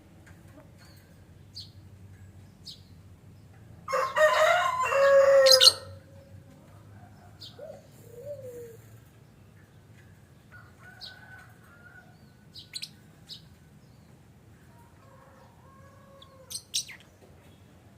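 Lovebirds giving short, high chirps every few seconds, with one loud call of about two seconds, starting about four seconds in and much louder than the chirps.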